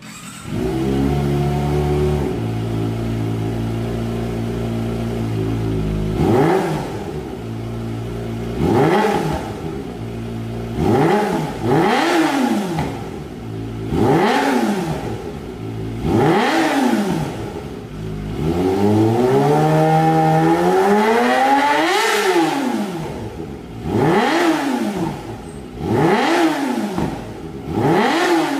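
Kawasaki Ninja ZX250R motorcycle engine through an aftermarket exhaust, idling steadily and then revved in short throttle blips every couple of seconds. About two-thirds through, one longer rev climbs higher before dropping back, followed by more quick blips.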